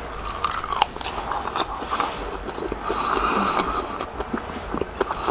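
A person biting into and chewing a crispy, cornstarch-coated fried chicken wing glazed in fish sauce, with many small crisp crunches of the crust.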